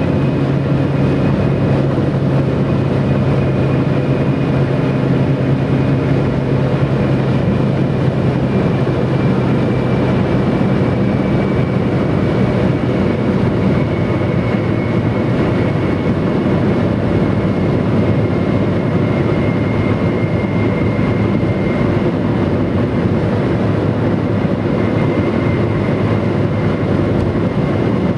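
Bridgestone Turanza tyres on a Mitsubishi Lancer 9 whistling at highway speed: a thin, high, aircraft-like whistle that slowly drops in pitch, over steady road and engine noise. A low drone fades about ten seconds in.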